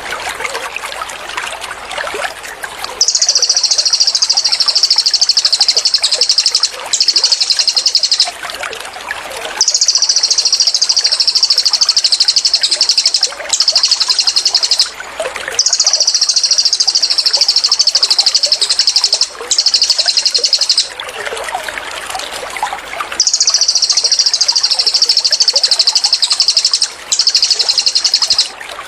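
Cililin singing its rapid 'tembakan' song: high, fast, buzzing trills in bouts of about four seconds, each followed by a short burst of about a second. The pattern repeats four times with brief gaps, over a steady trickle of running water.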